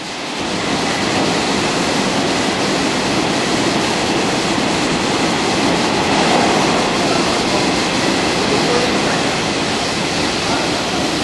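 A train running on the rails: a loud, steady rumble of wheels on track that swells about half a second in and holds.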